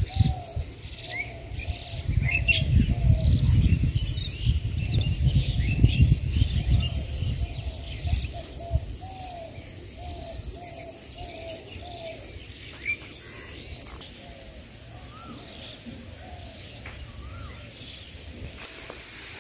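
Birds calling: one repeats a short rising-and-falling call about twice a second for the first dozen seconds, with smaller birds chirping above it. Wind buffets the microphone with a low rumble in the first half.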